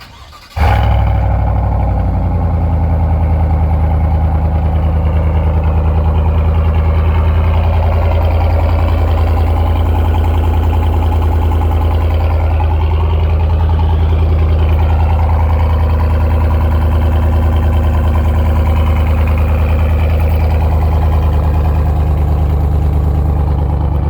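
Chevrolet Silverado's 5.3-litre V8 starting up about half a second in, then idling steadily with a strong low exhaust note.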